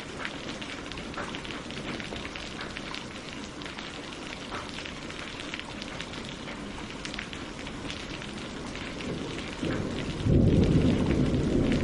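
Steady rain falling on leaves and lake water, a soft hiss with scattered drop ticks. About ten seconds in, a loud low rumble of thunder rises over it and keeps going.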